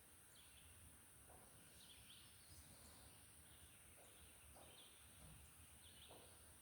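Near silence, with faint bird chirps repeating every second or so.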